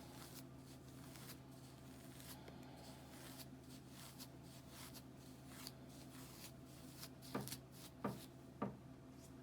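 A comb raking through dry, tangled, unwashed hair and flaky scalp: a run of faint rasping strokes, with three short louder sounds near the end.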